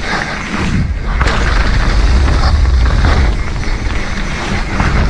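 A mountain bike ridden along a trail, heard through an action camera: low wind rumble on the microphone that builds about a second in, with rattling and tyre noise from the bike over rough ground.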